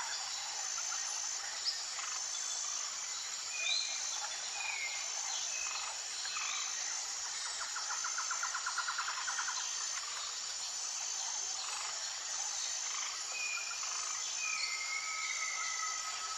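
Several birds chirping and whistling over a steady insect drone. A short high note repeats about every second and a half, and a rapid trill comes about seven seconds in.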